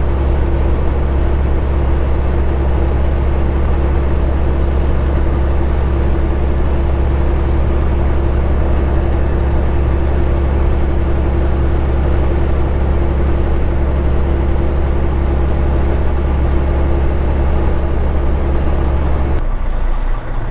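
Straight-piped Caterpillar 3406E diesel truck engine running steadily at cruise: a deep, even drone with a steady higher tone over it. The sound changes abruptly about a second before the end.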